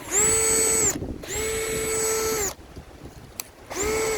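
Bauer 20-volt cordless drill run three times with no load. Each time its motor rises to a steady high whine and then winds down when the trigger is released.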